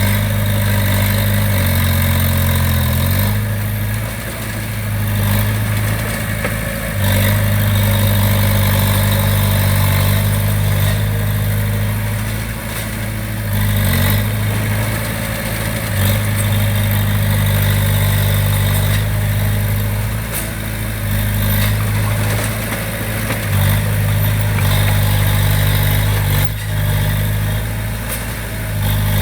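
Diesel engine of heavy construction equipment running steadily, its note stepping in pitch and dipping in level several times as the load changes.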